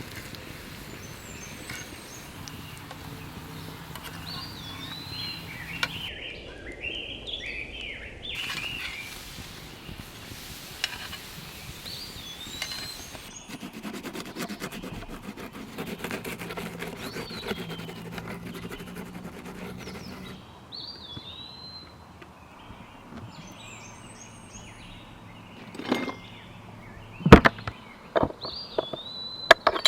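Birds chirping repeatedly over a steady outdoor background hiss, with a few sharp knocks and clinks near the end.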